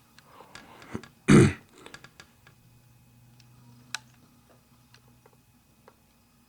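A short, loud burst of throat or breath noise about a second in, then faint scattered clicks over a weak low hum.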